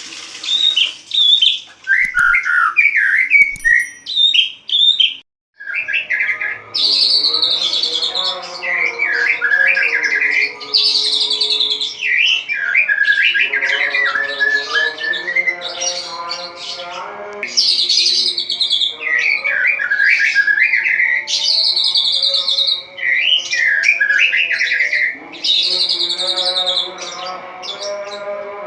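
White-rumped shama (murai batu) singing in full voice: loud, varied whistled phrases with rapid trills, one after another every second or two, with a short pause about five seconds in.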